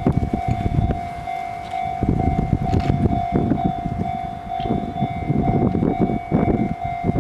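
Level-crossing alarm ringing its steady, pulsing electronic bell as a freight train hauled by an EF65 electric locomotive rolls past, its wheels rumbling and knocking over the rail joints, often in pairs.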